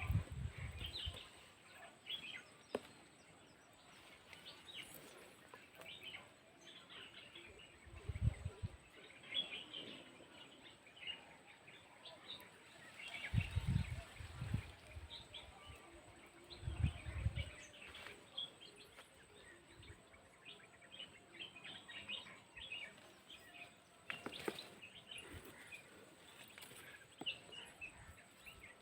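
Many small birds chirping in quick, short calls, fairly faint, with a few brief low rumbles about a third and half of the way in.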